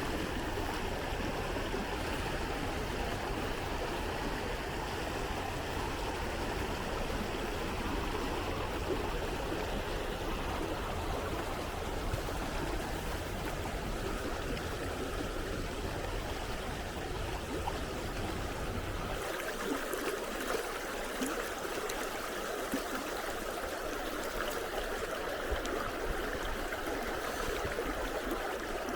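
Water of a stream or river running steadily. About two-thirds of the way through, the low rumble drops away, leaving a lighter rushing sound.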